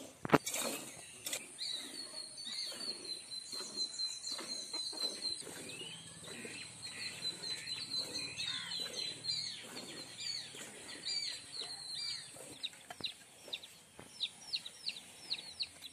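Small birds chirping and calling over and over, ending in a quick run of falling chirps about two a second. A single sharp knock just after the start, and a faint steady high tone behind the birds.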